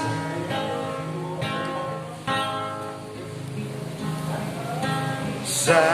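Acoustic guitar strumming chords, an instrumental passage between the sung lines of a ballad.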